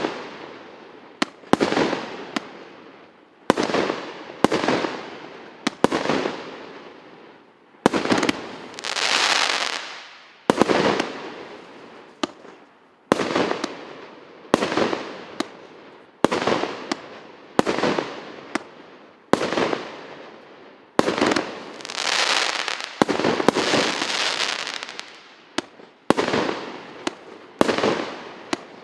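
Multi-shot consumer fireworks battery firing shot after shot, about one every second or so, each sharp bang trailing off in a fading hiss. Two stretches, about a third of the way in and again about three quarters of the way in, bring longer, denser hissing.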